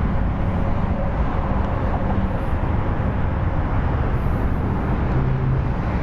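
Harley-Davidson Sportster 1200's fuel-injected V-twin running steadily at idle through Vance & Hines Short Shot exhaust pipes.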